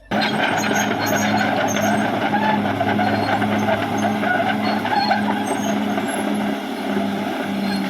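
Caterpillar D6R XL bulldozer's diesel engine running steadily, with a low pulsing drone under a dense mechanical clatter.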